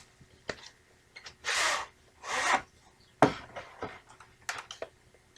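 A VHS cassette being handled and slid out of its case: two short sliding rubs, then a sharp knock and a few light clicks of plastic.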